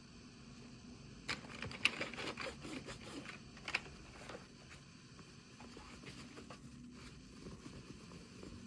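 Small plastic pieces and packaging being handled in an unboxing: a cluster of light clicks and crinkles starts about a second in and lasts a few seconds, then fades to faint room tone.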